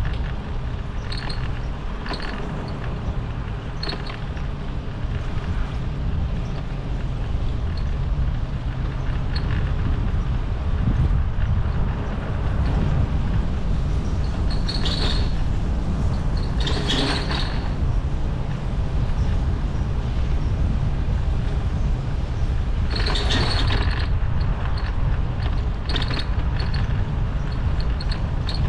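Wind buffeting the microphone of a moving bicycle, a steady low rumble, with short high chirps or squeaks now and then, loudest in three clusters in the middle and later part.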